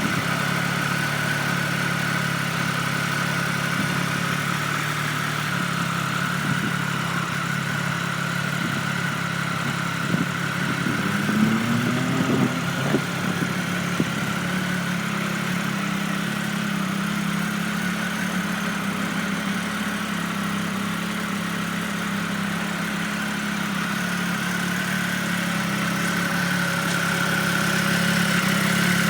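Triumph Speed Triple's liquid-cooled 1,050 cc three-cylinder engine idling steadily through Arrow aftermarket exhausts. Near the middle there is a short rise in pitch and a few sharp clicks.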